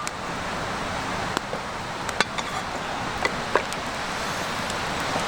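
Wood campfire burning, a few sharp crackling pops over a steady hiss.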